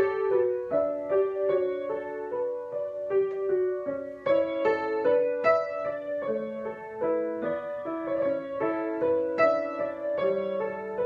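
Solo piano improvisation: a melody over chords in the middle register, each note struck and left to ring.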